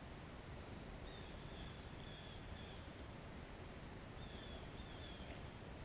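Quiet outdoor ambience with a low rumble, and a faint, thin, high bird call heard twice: once about a second in and again about four seconds in, each drawn out and falling slightly in pitch.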